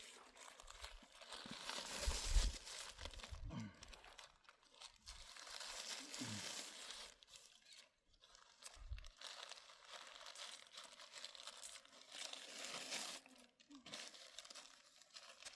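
Plastic crinkling and rustling as it is handled, with irregular bursts of rustle and a few dull bumps.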